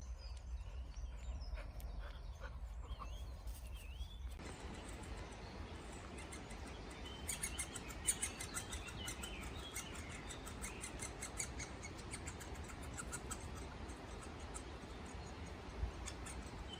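Wild birds chirping and singing outdoors over a low steady rumble. About four seconds in the sound changes, and from about seven seconds the birdsong turns denser, with fast trills.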